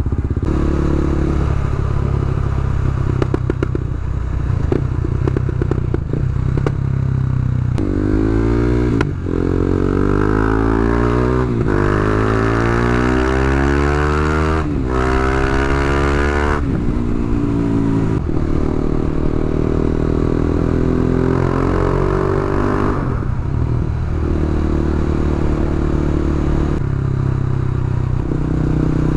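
KTM Duke 390's single-cylinder engine running through an Akrapovic exhaust with the dB-killer removed, on the move. Partway through it accelerates, its pitch rising and dropping back at several upshifts, then it settles to a steady cruise.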